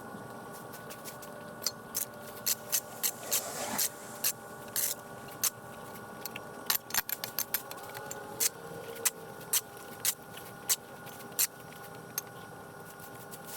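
Broom sweeping moss and roof debris off hard ground: irregular short, scratchy strokes, some in quick runs. A faint steady hum of several held tones sits underneath.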